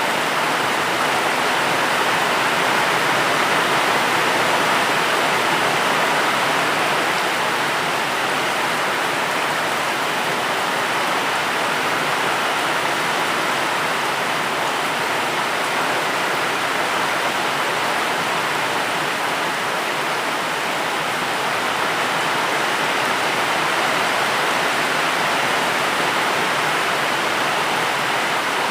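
Steady rain falling, an even rushing hiss with no single drops or changes standing out.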